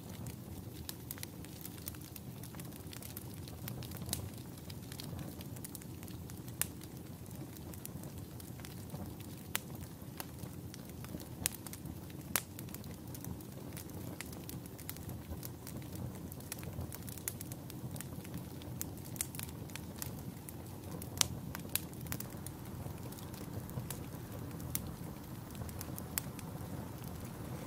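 Wood campfire crackling, with irregular sharp pops, a few louder than the rest, over a steady low background noise.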